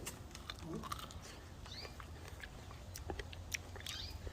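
A man chewing boiled corn: faint, irregular soft clicks and smacks of mouth and teeth.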